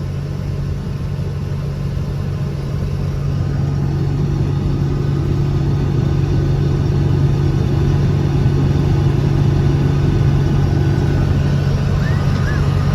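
Case IH 1680 combine running steadily while straight-cutting barley: a low, even drone that grows a little louder about four seconds in.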